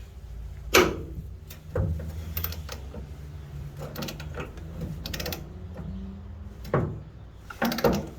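Hand ratchet clicking in short runs as bolts on a Jeep Comanche's rear bumper brackets are worked loose, with a few sharp metallic knocks in between.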